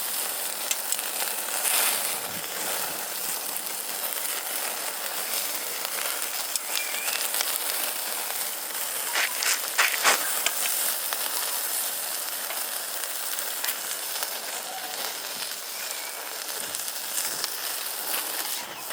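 Food sizzling over a wood fire: a steady hiss with scattered sharp pops and crackles, a small cluster of louder ones about halfway through.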